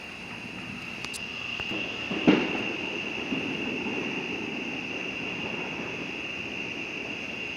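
A single firework bang about two seconds in, followed by a low rolling rumble that slowly fades, over a steady high-pitched whine.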